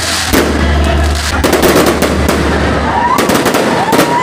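Aerial fireworks display: shells bursting in a string of sharp bangs and crackles, several reports a second apart.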